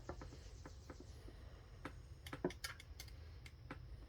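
Faint, scattered light clicks and taps from metal transmission parts being handled during a teardown, about a dozen of them irregularly spaced over a few seconds.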